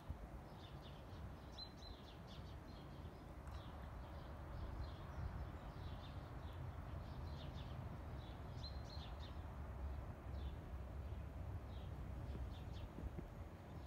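Small birds chirping in quick, repeated short calls over a faint, steady low rumble.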